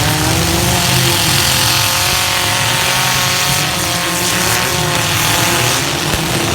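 Compact pickup truck engines revving hard in a demolition derby heat, one engine's pitch climbing just as it begins and then holding high.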